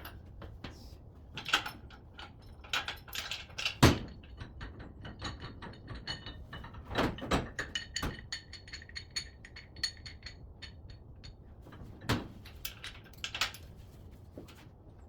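Knocks and clanks of equipment being handled, with a run of rapid even clicking over a ringing tone from about 4 to 10 seconds in.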